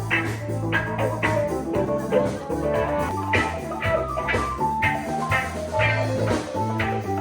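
Band music with guitar, bass and drums playing a steady beat, about two strikes a second over held bass notes.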